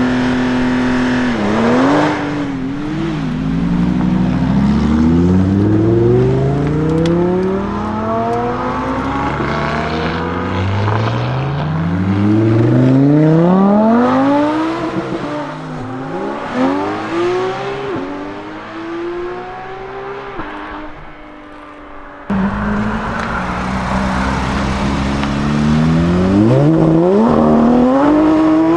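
Lamborghini Huracan STO's naturally aspirated V10 accelerating hard: revs held steady briefly, then climbing through several upshifts, the pitch rising and dropping back at each shift. After a quieter spell the sound cuts abruptly, about 22 seconds in, to another loud acceleration.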